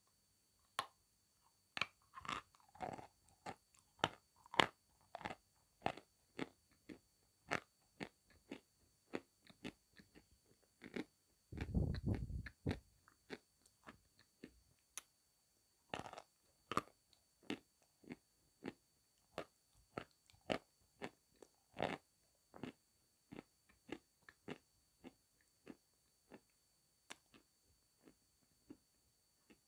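A person biting and chewing hard, dry chunks of white clay close to a small clip-on microphone: a steady string of crisp crunches and cracks. A louder, denser burst of crunching comes near the middle.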